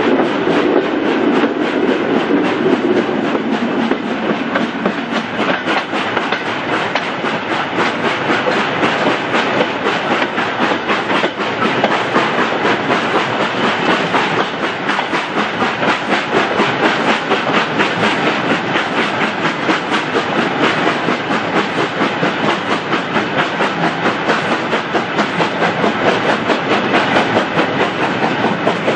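Steam-hauled train, plausibly LMS Black Five 4-6-0 No. 45212, running along the line with a steady, rapid rhythm of beats and wheel clatter over the rails.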